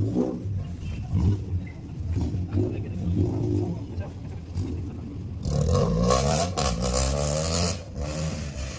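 A race car's engine revving up and passing, loudest from about six to eight seconds in as its pitch rises, over a hiss of tyres on gravel.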